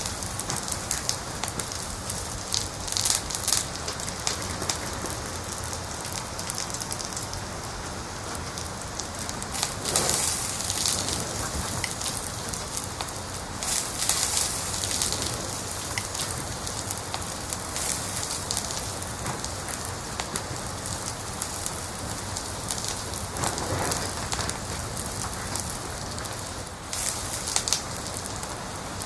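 Wood fire crackling in a fireplace: a steady hiss full of small pops and snaps. Louder clusters of crackles come about 3 seconds in, again around 10 and 14 seconds, and near the end.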